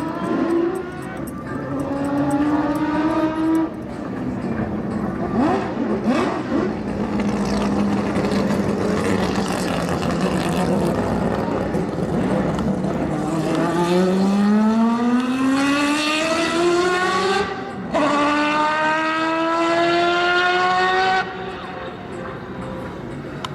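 Car engine pulling hard through the gears. Its pitch climbs and then drops at each upshift, a short break near 18 s marking one. It holds a steady note in the middle, and near the end the driver lifts off and it falls away.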